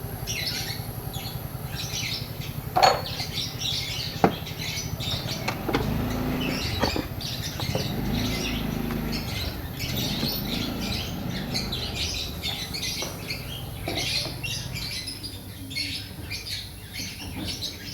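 Small birds chirping continuously over a low steady hum, with two sharp knocks about three and four seconds in, from tool work while the thermostat is being taken off the engine.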